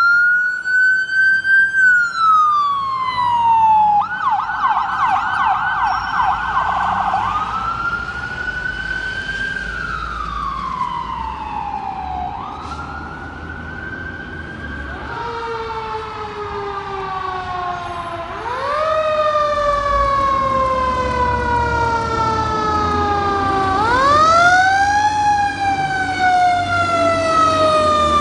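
Fire department emergency vehicle sirens: a wail rising and falling in pitch, switching to a fast yelp for a few seconds, then back to long wails. From about halfway, a second, lower siren sounds together with the first, over the low rumble of the apparatus engines.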